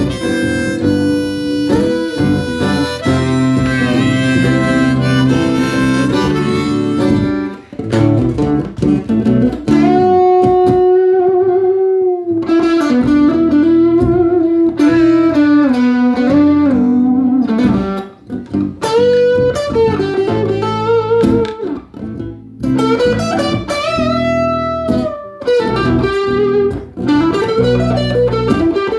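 Blues played on guitar and harmonica: plucked guitar notes and chords under long, bending harmonica notes.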